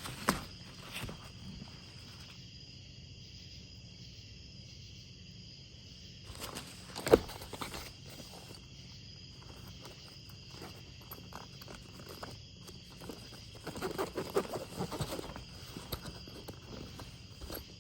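Scattered knocks and rustling handling sounds, the loudest a sharp knock about seven seconds in, with a busier spell of knocking about two thirds of the way through, over a steady high-pitched hum.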